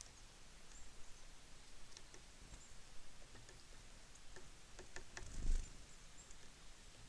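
Small birds at a seed feeder: scattered light clicks and ticks of pecking, a few short high chirps, and one louder dull thump about five and a half seconds in.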